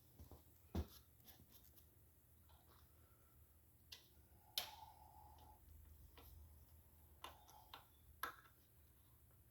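Mostly quiet, with a few light, separate metal clicks and taps from hand tools being handled on a cast-iron engine block; the sharpest comes about halfway and rings briefly, and three more follow near the end.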